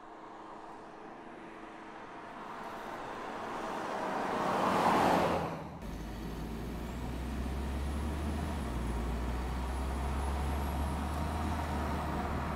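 Car noise that swells over about five seconds, as a car driving past does, and cuts off suddenly. It is followed by a steady low rumble of a car on the move.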